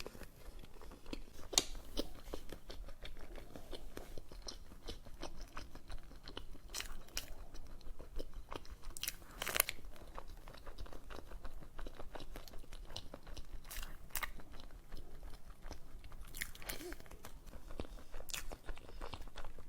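Close-miked eating of a dessert: crunching bites and chewing with moist clicks, and several sharper, louder crackles spread through.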